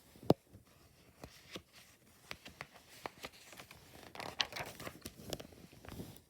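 Paper pages of a book rustling and crinkling as they are handled and turned, with a string of sharp clicks and taps, the loudest about a third of a second in.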